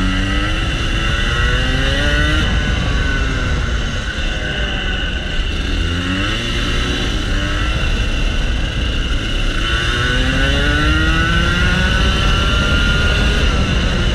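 Rotax Max Senior 125cc two-stroke kart engine heard on board, its revs climbing as the kart accelerates and dropping back between runs: a rise near the start, a short one about six seconds in, and a long climb near the end.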